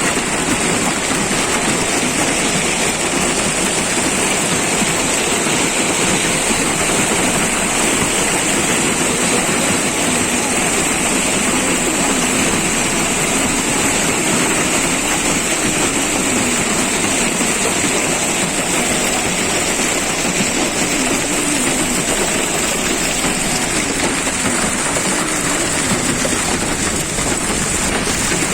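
Hailstorm: hail and rain falling steadily in a dense, even hiss with a low rumble underneath.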